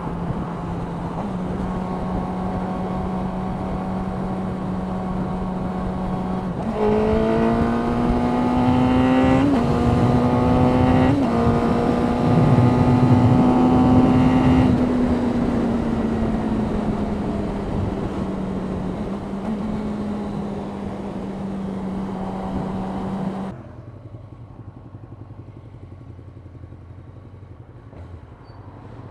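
Suzuki GSX-R 600 inline-four engine running through its stock exhaust can, which gives a quieter note. Its pitch is steady, rises about seven seconds in and holds, then eases back down; near the end the sound drops suddenly to a much quieter low hum.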